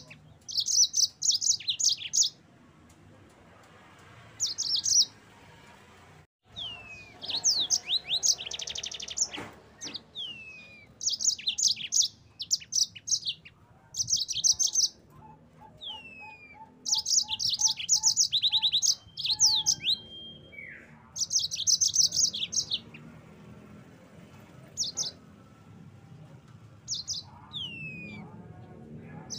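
Yellow-fronted canary (Mozambique canary) singing: repeated phrases of fast, high trills and chirps mixed with short down-sliding notes, each phrase lasting a second or two with brief pauses between.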